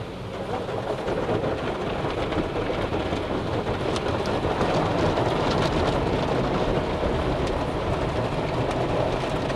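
Automatic car wash working over the car, heard from inside the cabin: a dense, steady rush of water and machinery against the body, growing louder over the first second or two.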